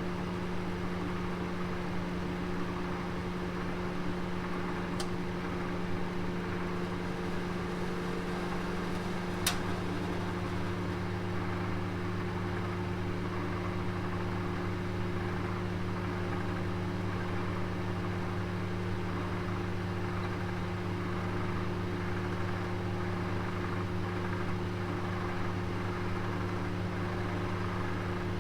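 Oven running with a roast inside: a steady electrical hum and hiss, with two faint ticks about five and nine seconds in.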